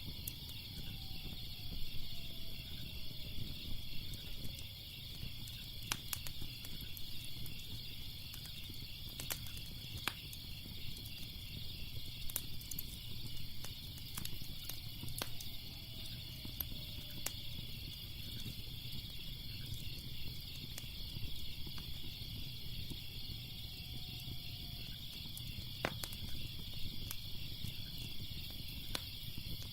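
Crackling fire with scattered sharp pops over a low steady rumble, against a continuous chorus of chirping insects, likely crickets.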